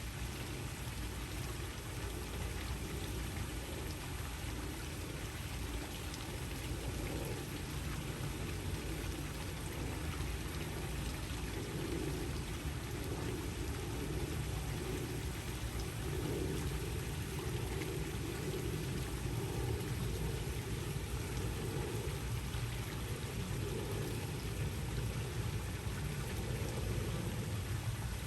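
Waterfall: a steady, even wash of falling water that does not change.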